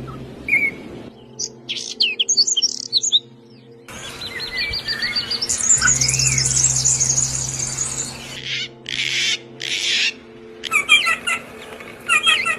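Songbirds chirping and trilling in a string of short clips, several different birds. The background changes suddenly every two or three seconds as one clip cuts to the next: quick high chirps, then a dense buzzy trill, then bursts of rapid twittering near the end.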